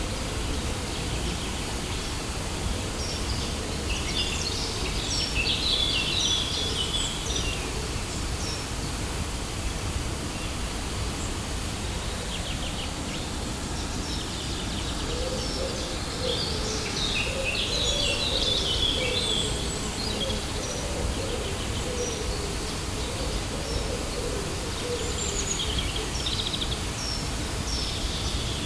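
Waterfall rushing in a steady, even roar, with birds chirping in two flurries of high calls, about four seconds in and again after about sixteen seconds.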